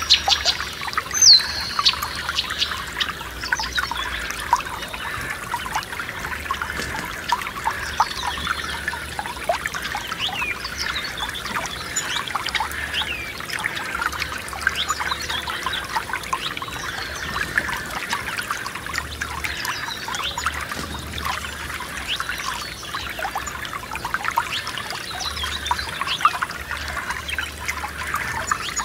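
Small forest stream trickling and gurgling over stones, a steady dense babble, with birds singing faintly now and then.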